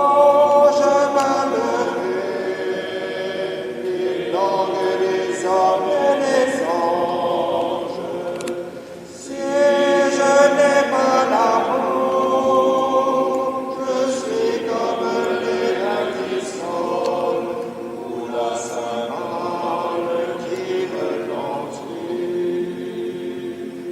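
A group of voices singing a slow French hymn together, in sustained phrases with a short break for breath about nine seconds in.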